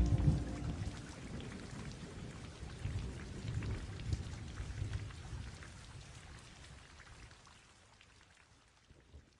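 Rain with low rolling thunder, starting right as the music cuts off and fading away gradually to near silence.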